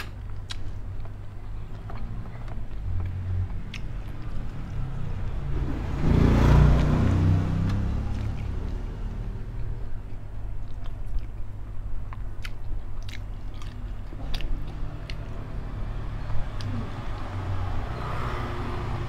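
Close-miked chewing and biting of chicken pieces, with scattered sharp clicks of a spoon on the plate, over a steady low rumble. About six seconds in, a louder rumbling swell rises and fades over a couple of seconds.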